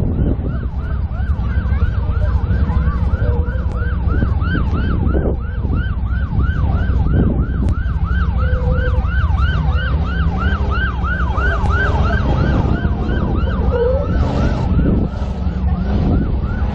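A siren-like yelp, a rising-and-falling wail repeating about three times a second, over a steady low rumble of engine and wind noise.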